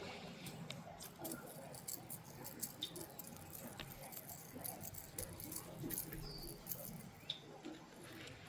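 Faint, irregular small clicks and light rattling, scattered through the whole stretch, like fishing tackle being handled.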